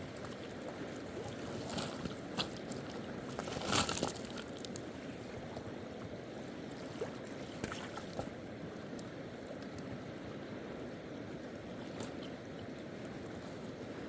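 Steady rushing noise of running water, with a few short clicks or knocks, the loudest about four seconds in.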